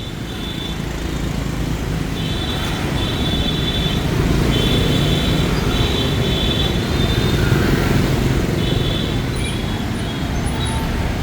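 Dense street traffic of motorbikes and cars running past: a steady engine rumble, with short high beeping pulses coming and going.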